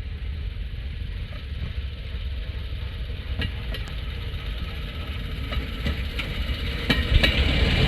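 Small engines of railroad motorcars (track speeders) running with a steady low rumble, with a few sharp clicks scattered through and the sound growing louder near the end.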